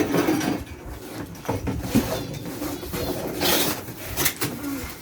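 Bird-cage parts being handled and unpacked: several short knocks and a rustle, with a dove cooing.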